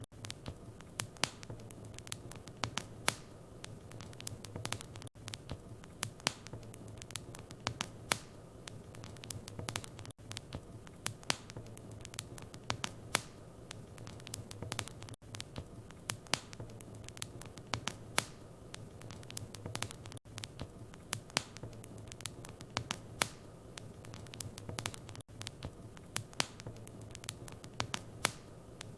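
Wood fire in a fireplace crackling, with frequent irregular sharp pops and snaps over a steady low rumble that dips briefly about every five seconds.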